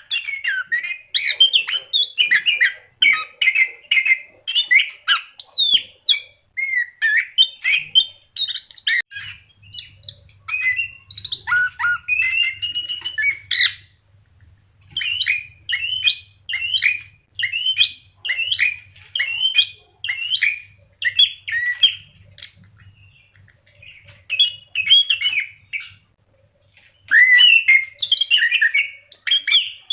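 Orange-headed thrush (anis kembang) in full song: a fast, unbroken stream of varied whistled, warbled and chattering phrases, with a brief pause near the end.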